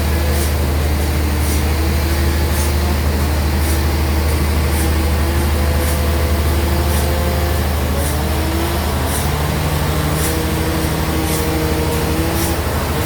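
Sawmill bandsaw running, a steady loud low drone with wavering higher tones over it and a faint high tick about once a second.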